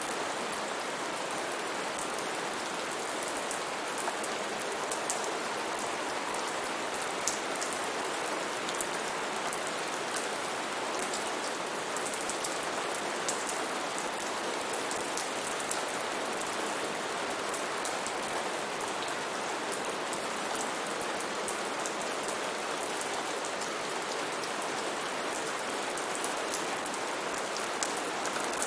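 Steady rain falling, an even hiss with frequent sharp ticks of individual drops striking nearby surfaces.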